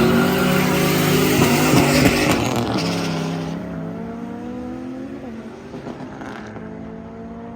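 A car engine at full throttle in a race run, its pitch climbing and holding high, then fading steadily as the car pulls away.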